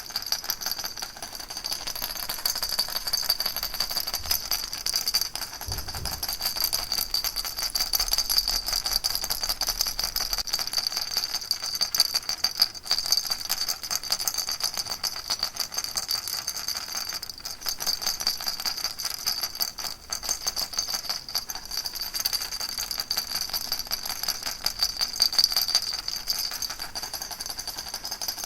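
Baby rattle shaken continuously: a dense, steady stream of fine, bright rattling that swells and eases slightly without pause.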